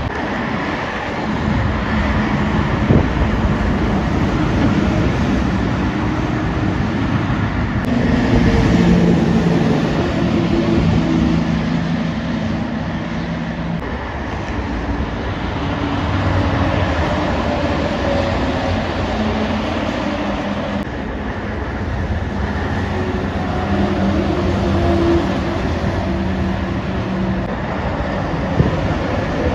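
Heavy trucks and other traffic passing at speed: a steady rush of tyres and wind, with a truck's diesel engine note standing out twice, about 8 to 14 seconds in and again around 23 to 28 seconds.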